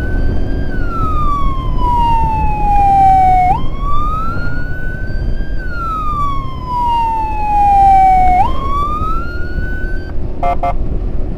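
An emergency vehicle siren wailing. The pitch steps up, climbs, then slides slowly down, repeating about every five seconds, until it cuts off about ten seconds in and a few short beeps follow, over a steady low road-and-wind rumble.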